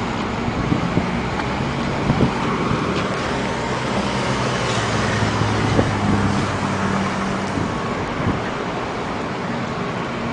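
Car driving along a town street, heard from inside: steady engine hum and road noise, with a few light knocks.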